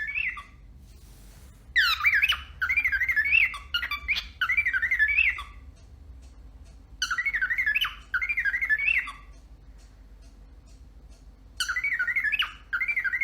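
A pet bird gives a loud, rapidly wavering alarm-like call in repeated bouts of one to three seconds, with pauses of a couple of seconds between.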